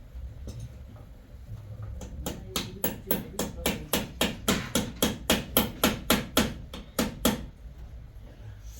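Rapid, steady pounding: about twenty sharp blows, some four a second, that grow louder and then stop suddenly after about five seconds.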